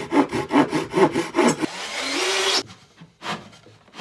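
Saw cutting through plywood in quick, even strokes, about seven a second, then a smoother steady rasp for about a second before it stops.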